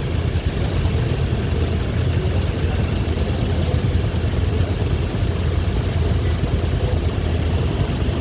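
Motorcycle on the move: the engine runs steadily under continuous wind and road noise on the microphone.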